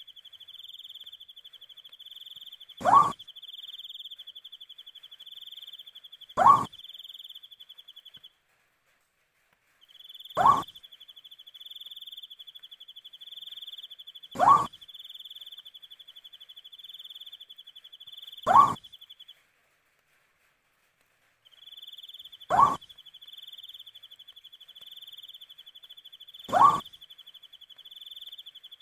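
An owl calling with a short, loud note repeated about every four seconds, seven times, over a steady high pulsing insect trill that breaks off twice.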